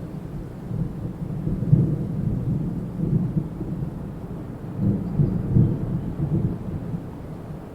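Strong wind gusting with a deep rumble, swelling twice in surges and easing off between.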